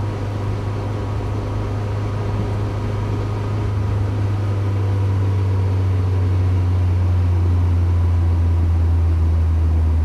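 Mazda MX-5's four-cylinder engine running steadily with a low drone; about halfway through the drone drops slightly in pitch and gets louder.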